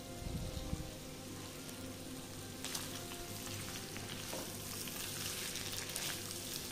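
Squid rings with garlic and green chillies sizzling in butter in a pan, with a spatula stirring and scraping them. The sizzle gets louder about three seconds in, and a few light clicks of the spatula on the pan can be heard. There is a soft low knock near the start.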